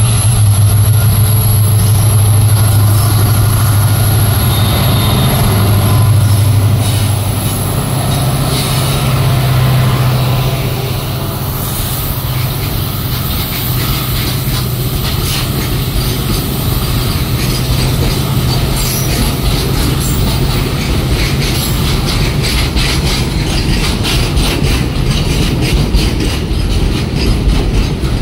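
Twin WDG4 diesel-electric locomotives, EMD 16-cylinder two-stroke engines, accelerating past under power with a deep, loud engine drone that fades after about twelve seconds. Loaded steel-coil flat wagons then roll by, their wheels clicking over the rail joints, the clicks coming thicker toward the end.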